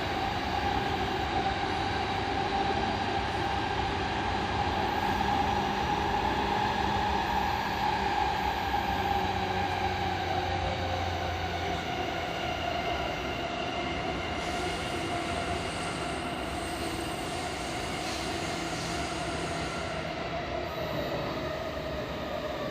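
Running noise of an E233-7000 series electric train, heard from inside the passenger car: a steady rumble of wheels on rail with a motor hum whose pitch slides lower over the last several seconds as the train slows. A higher hiss joins in for several seconds in the middle.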